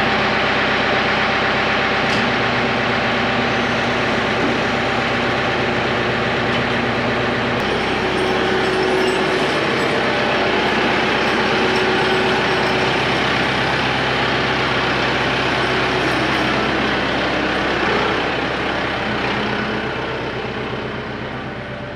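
Kubota tractor's diesel engine running steadily. Its tone shifts about eight seconds in, and the level eases slightly near the end.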